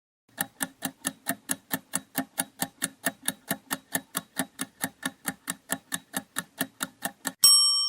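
Countdown-timer sound effect: an even clock-like ticking at about four ticks a second, ended near the close by a single ringing ding as the time runs out.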